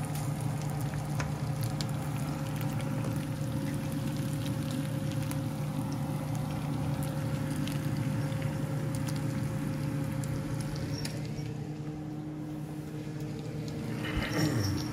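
Chicken pieces frying in hot fat in a nonstick pan, sizzling with many small crackles and pops, over a steady low hum.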